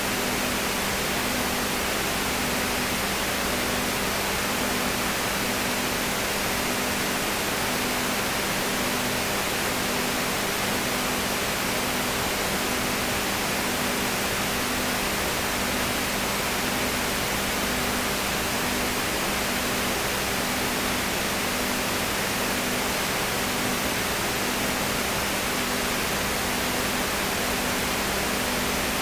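Steady hiss with a low hum, one tone of which pulses about once a second.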